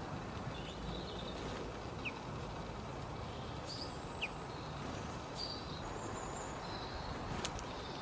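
Outdoor garden ambience: a steady low background rumble with faint, short, high small-bird chirps several times over it.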